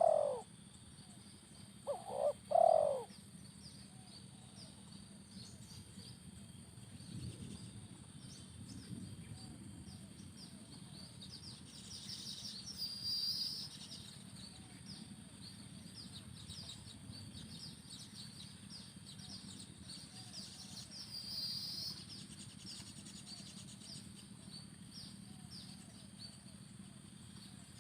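Spotted dove cooing, two phrases in the first three seconds. After that, high chirping runs on in the background, swelling twice, around twelve and twenty-one seconds in.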